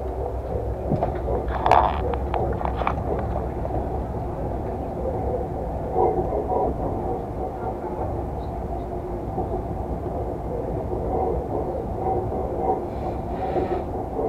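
Inside a moving Moscow Central Circle electric train: the car runs with a steady low rumble, and a brief rattle of clicks comes about two seconds in.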